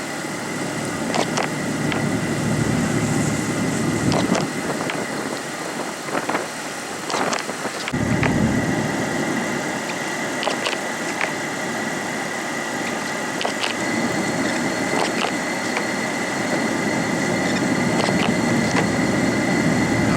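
Car engine running with road noise while driving through snow. The low rumble eases off for a few seconds near the middle, then picks up again, with scattered sharp clicks and taps over it.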